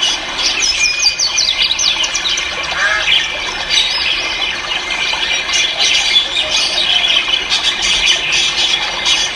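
Many caged ornamental birds calling at once: a dense, overlapping chorus of high chirps and whistles with quick sliding notes.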